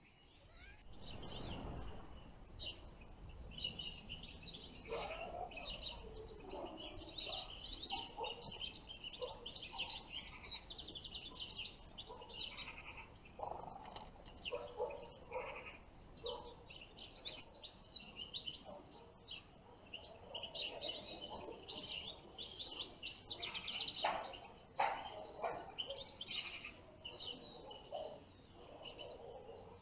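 European goldfinches twittering and chirping, with many short high calls overlapping almost without pause.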